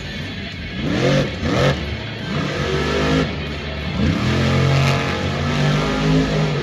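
Monster truck engine revving hard, its pitch rising and falling several times in the first four seconds, then holding steadier. These are high-horsepower blown engines burning alcohol fuel.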